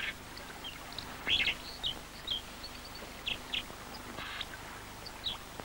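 Small birds chirping here and there, with short high calls scattered through, over a faint steady background hiss.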